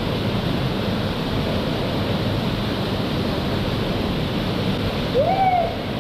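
Steady rush of a waterfall's falling water, with a short rising-then-falling voice-like call near the end.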